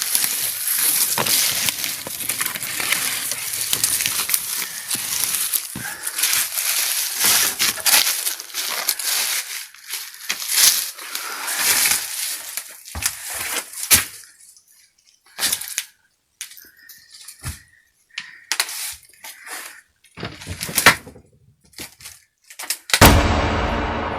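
Brush and branches rustling and twigs snapping as a person forces a way through dense undergrowth: dense at first, then scattered separate cracks with quiet gaps. Near the end a loud bang rings on and fades.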